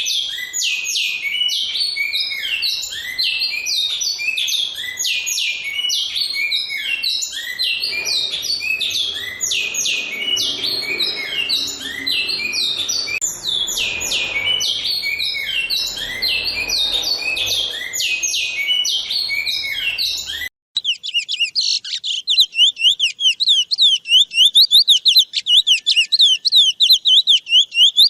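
Songbirds singing: for about twenty seconds a bird repeats quick, rapid phrases of high notes over faint background noise, then the sound cuts abruptly to a different bird singing a loud, very fast trilling song.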